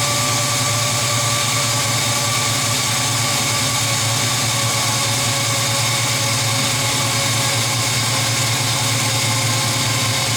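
5.3-litre LM7 V8 idling steadily at a raised fast idle just after start-up, heard through a new Magnaflow 15896 muffler.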